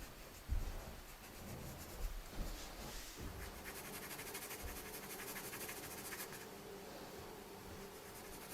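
Pencil lead scratching across paper in quick shading strokes, faint and steady, with a couple of soft knocks in the first two seconds.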